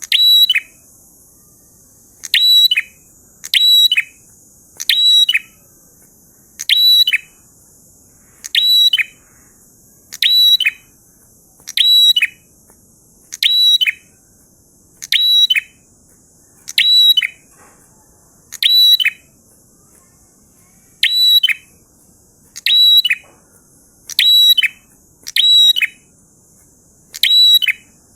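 A prinia singing the same short phrase over and over, roughly one every second and a half. Each phrase starts high and steps down in pitch. A steady faint high hiss runs behind it.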